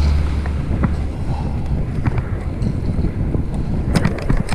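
Wind rushing over the microphone during a fixed-gear bicycle ride, with a low road rumble that eases after the first second. A few sharp clicks or rattles come close together near the end.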